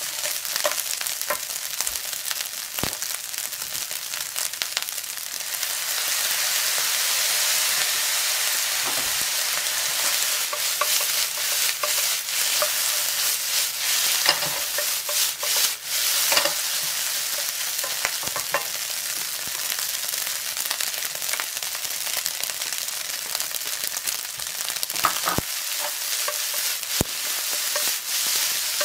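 Fried rice with sausage and egg sizzling in a frying pan while a wooden spatula stirs and tosses it, with scraping and frequent short clicks of the spatula against the pan. The sizzle grows louder about five or six seconds in.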